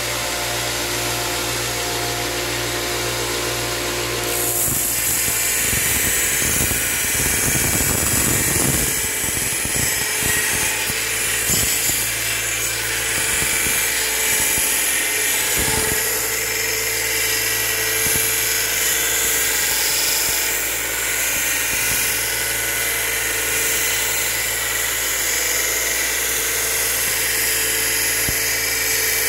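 A power tool running steadily, with a dense high hiss that comes in about four and a half seconds in.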